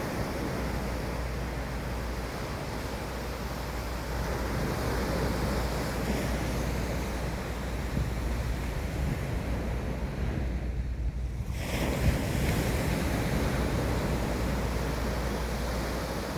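Sea waves washing, with wind rumbling on the microphone; the higher hiss dips away for about a second, about two-thirds of the way through.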